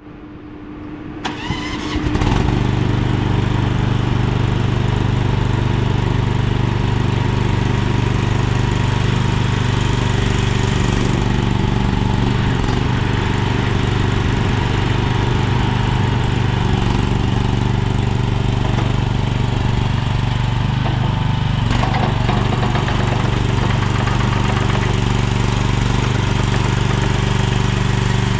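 Small engine of a tracked ride-on mini skid steer starting, catching about two seconds in, then running steadily.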